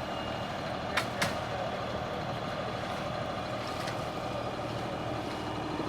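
Diesel engine of a concrete mixer truck running steadily during the pour, with two sharp knocks about a second in.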